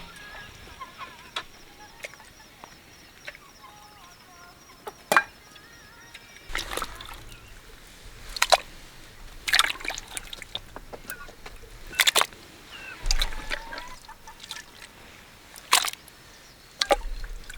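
Water sloshing and trickling, with a dozen or so sharp, irregular knocks and clatters, several close together in the second half.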